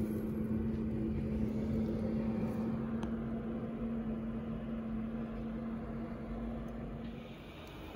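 A steady mechanical hum over a low rumble, the hum dying away about seven seconds in.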